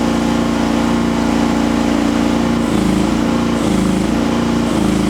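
Rippa R10 gas mini excavator engine running steadily. From about two and a half seconds in, its pitch dips and recovers several times as the hydraulics are loaded to read the arm cylinder's pressure on a gauge.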